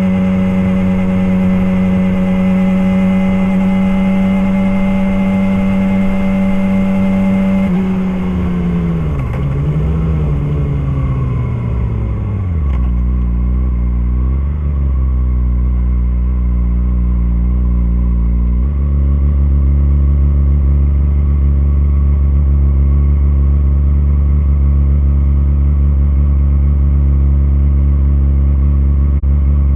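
Motorcycle engine held at a steady high rev for about eight seconds, then the revs fall away over a few seconds and it settles to a low idle. The idle gets louder and deeper a little past halfway.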